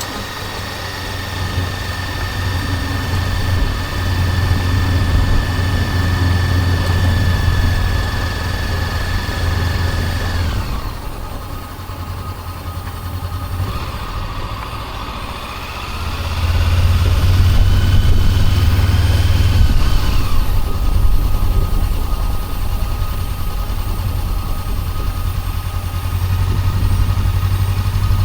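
Honda CB400X's parallel-twin engine running under way, heard from the rider's chest, with a steady high whine over the low engine note. The engine quietens about a third of the way in and comes back louder a little past the middle.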